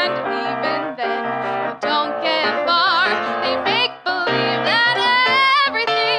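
A woman singing a soul ballad over live piano accompaniment, with a wavering held note about three seconds in and a long sustained note in the second half.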